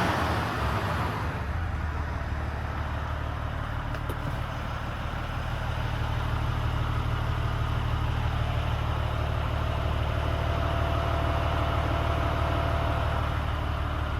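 Volvo FM 450 truck's 13-litre straight-six diesel running. It drops back in the first second or so to a steady idle.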